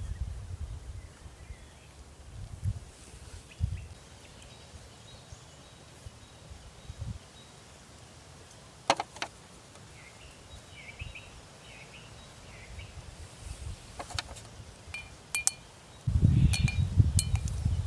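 Outdoor ambience with gusts of wind buffeting the microphone, stronger near the end. Faint bird chirps come now and then, and a few sharp clicks or taps sound, the first about halfway through and a cluster near the end.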